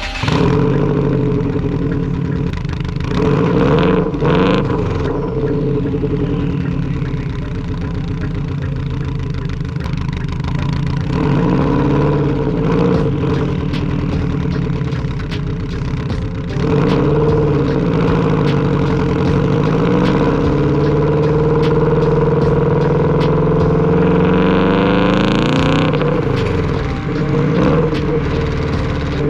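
2004 Subaru WRX's turbocharged flat-four engine under way, rising in pitch as it accelerates and dropping back several times as it shifts through the gears, with one long pull in the second half. A brief hiss comes at the top of that pull.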